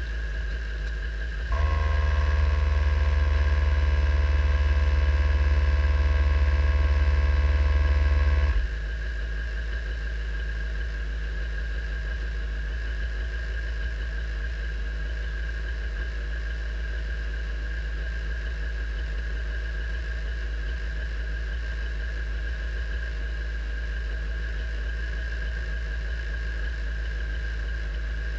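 Race car engine idling in neutral with a steady low hum. About a second and a half in, a louder steady drone with several fixed tones joins, then cuts off sharply about seven seconds later.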